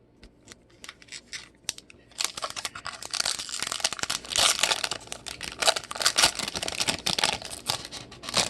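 A foil trading-card pack wrapper being torn open and crinkled. A few light clicks come first, then about six seconds of dense crackling and tearing.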